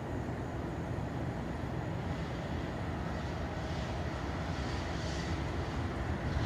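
Freight train rolling past: a steady low rumble of wheels and cars, with a brighter hiss coming and going in the second half.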